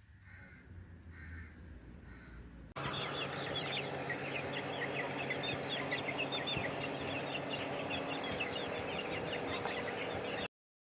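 A flock of chickens clucking and calling together, a dense stream of many short high calls. The flock sound starts abruptly after a quieter first few seconds and cuts off suddenly shortly before the end.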